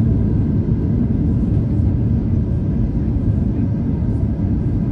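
Airliner cabin noise heard from a window seat: a steady, loud low rumble of the engines and airflow, with a faint steady whine above it.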